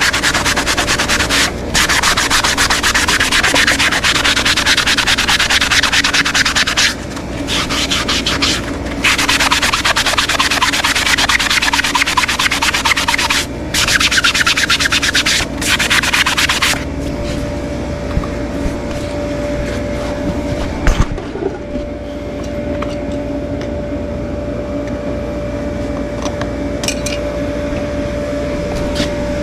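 A hoof being abraded: loud, continuous sanding with a few short pauses. About halfway through it gives way to a quieter steady hum with one even tone and a single knock.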